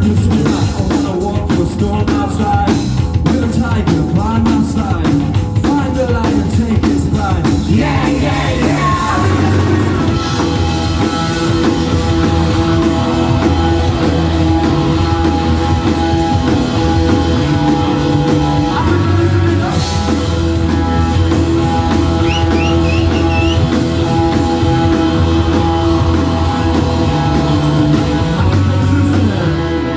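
Rock band playing live: drum kit, electric guitars and singing. About eight seconds in, the dense drumming thins out and the band settles into long held, droning chords.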